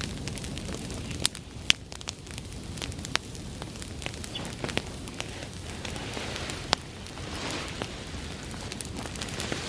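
Bonfire of dry summer grass burning: a steady low rush of flame with frequent sharp crackles and pops, a few of them much louder than the rest.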